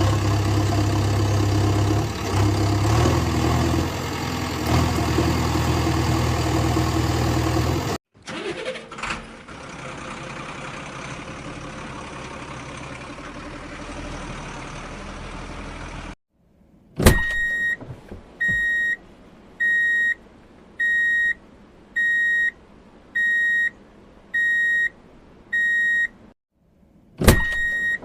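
A truck engine running steadily, cut to a quieter, rougher engine stretch, then a reversing alarm beeping eight times, about once a second.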